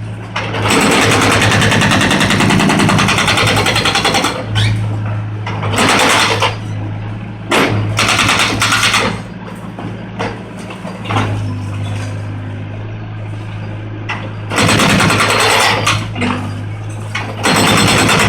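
Volvo 55 compact excavator's diesel engine running steadily, over and over drowned out by loud crashing and grinding stretches a second or a few long as concrete is broken and falls during demolition.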